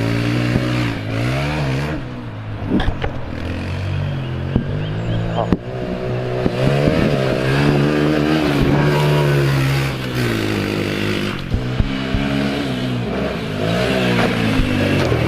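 Honda TRX 90 quad's small four-stroke single-cylinder engine revving up and backing off again and again as it is ridden around a dirt track, with a few sharp knocks along the way.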